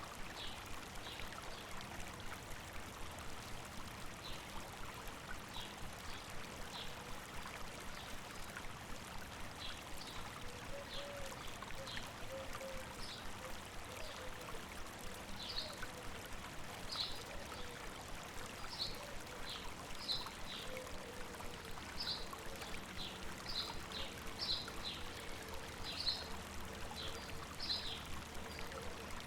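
A river or stream running steadily over rocks, with birds giving short, high chirps over it, sparse at first and more frequent from about a third of the way in.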